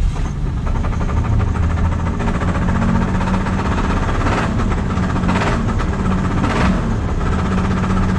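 1978 Plymouth Volare's slant-six engine running steadily with a knock, which the owners place in the oil pan and take for a blown-up engine.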